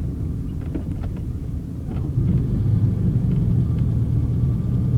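Car driving off-road: a low engine and road rumble that grows louder about two seconds in, with a few light knocks.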